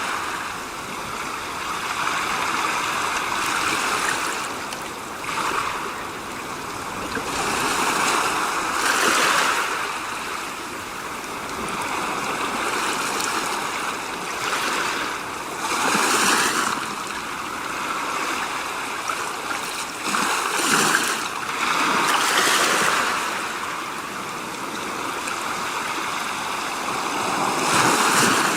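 Steady rushing noise, like running water, swelling and fading every few seconds.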